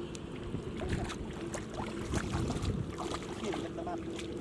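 Water splashing and sloshing in a flooded field, with many short, irregular clicks and knocks.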